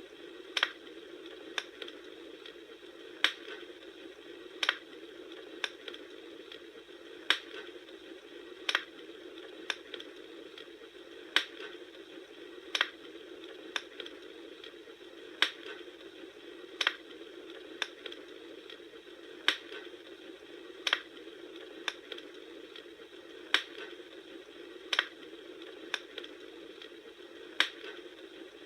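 Campfire crackling: sharp pops about every second and a half over a steady hiss of burning.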